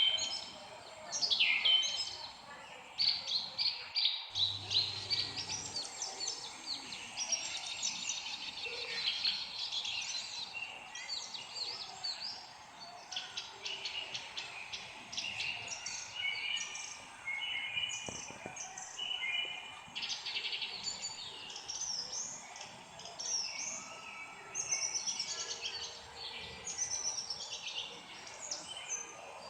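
Several songbirds chirping and singing together in a dense chorus of short, high chirps and trills, over faint background noise.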